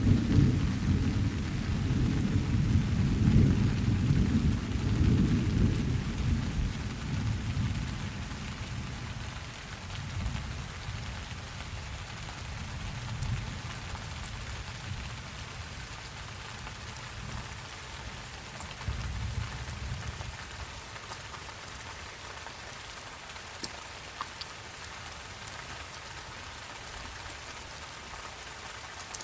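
Steady rain with a long rolling rumble of thunder at the start that dies away over about eight seconds. A few fainter rumbles follow, then only the even hiss of the rain.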